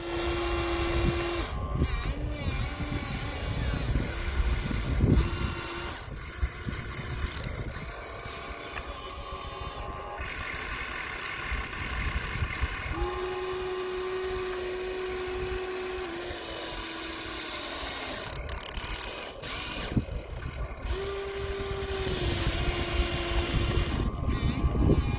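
Small electric motors and plastic gearboxes of Huina radio-controlled excavators whining in short runs that start and stop as the arm, bucket and tracks are worked, over a steady background hiss.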